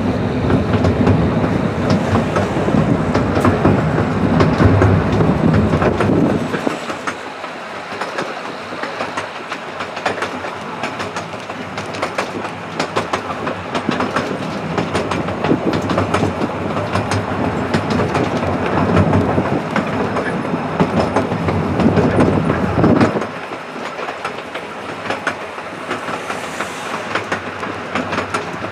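Miniature-railway train running, heard from a carriage behind the locomotive: steady wheel and track noise with wheels clicking over rail joints. A heavier low rumble comes in for the first six seconds and again from about 19 to 23 seconds.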